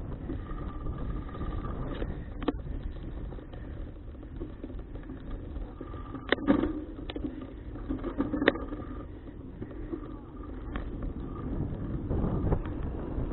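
Riding noise from a moving folding bicycle picked up by an action camera: a steady low rumble of wind and road, with several sharp clicks and knocks, and the wind growing louder near the end.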